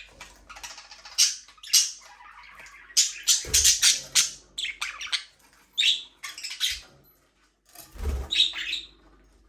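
Budgerigars chirping and squawking: a quick, busy run of short overlapping calls from several birds, with a couple of brief low thumps.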